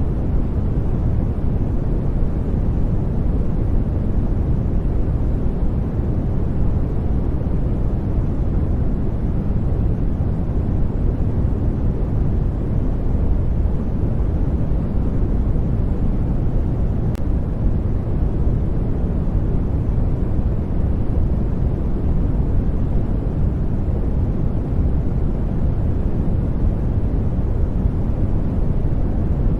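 Steady sleep-noise track: an even rushing hiss weighted heavily to the low end, deep like brown noise, unchanging throughout.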